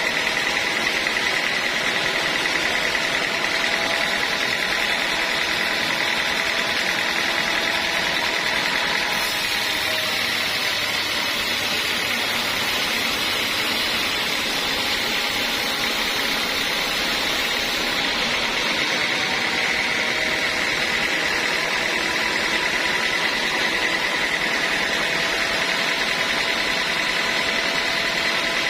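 Band sawmill running steadily with a high whine over a hiss, its blade sawing through a teak log, with a brighter hiss for a stretch in the middle.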